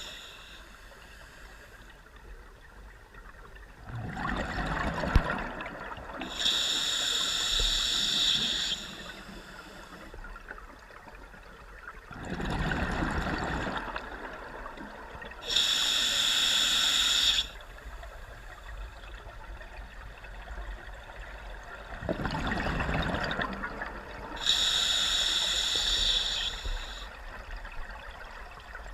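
Engine-room machinery cycling: a rushing, water-like noise followed at once by a hiss with high whistling tones, the pair repeating about every nine seconds, three times, over a steady low background.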